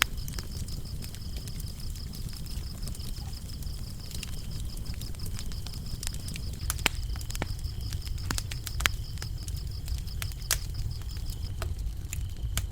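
Wood fire burning with a low rumble and frequent sharp crackles and pops, with crickets chirping in a steady high trill that stops near the end.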